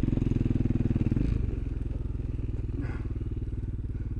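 Motorcycle engine running hard under throttle, then eased off about a second in and running on at lower, steady revs.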